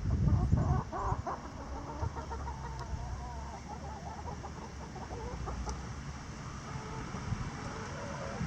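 A flock of laying hens clucking and calling, many short overlapping calls, with low thumps and rumbling in the first second.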